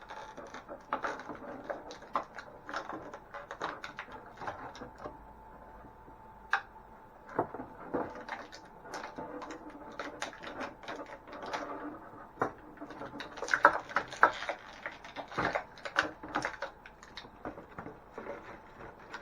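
Irregular clicks, taps and short scraping rustles of plastic toy pieces and packaging being handled and pulled out by hand.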